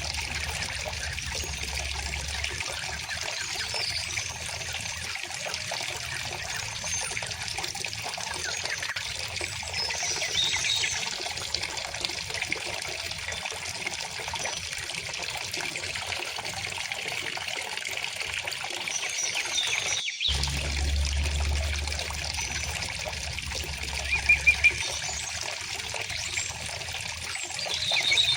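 Steady trickling and babbling of a gently flowing river stream, with occasional short bird chirps over it; a quick run of chirps comes about 24 seconds in. The sound cuts out for an instant about two-thirds of the way through.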